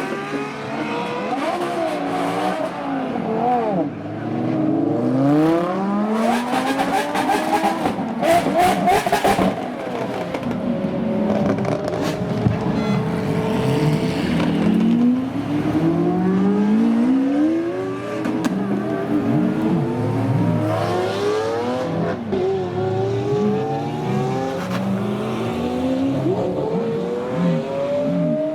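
Several supercar engines revving and accelerating one after another, their notes repeatedly climbing in pitch as they pull away. Sharp crackles come through briefly about a third of the way in.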